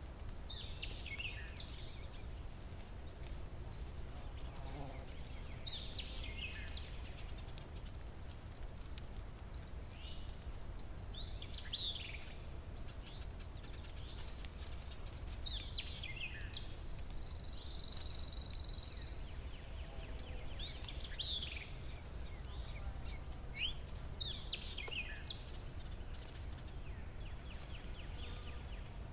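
Forest ambience: a songbird repeats a short, quickly falling song phrase about every five seconds. Under it runs a steady high-pitched whine and a low rumble.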